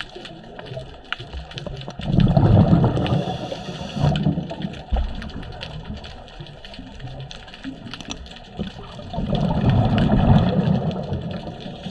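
Underwater recording of a scuba diver's regulator exhaling: two bubbling rushes of exhaust bubbles, one about two seconds in and another near the end, with faint clicking in between.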